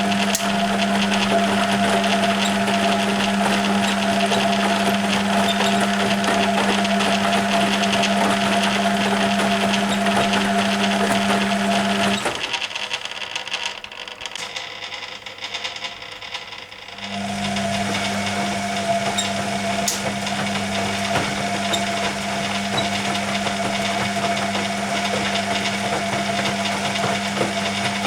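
1980 Hoover Keymatic A3112 washing machine's motor turning the drum with a steady hum and whine; it stops for about five seconds just under halfway through, then starts up again, the pause between turns of the drum in the wash action.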